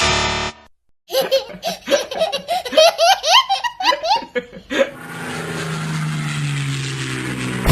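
Hearty laughter in a run of short bursts lasting about four seconds, after a brief buzzy tone at the start; near the end it gives way to a steady hiss with slowly falling tones.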